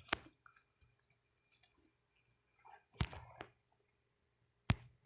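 A few isolated sharp clicks, about four in all, spread apart, over a faint steady hum.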